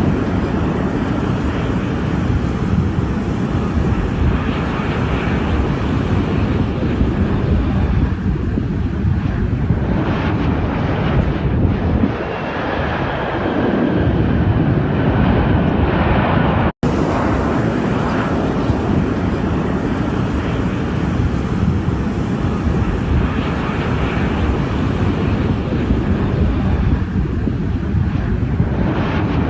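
Jet airliner landing: steady engine noise mixed with heavy wind rumble on the microphone. The sound drops out for an instant about seventeen seconds in.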